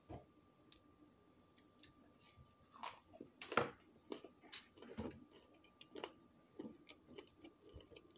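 A person chewing and biting a mouthful of fried egg with salsa close to the microphone, in irregular short wet clicks and smacks about a second apart, the loudest a little past the middle.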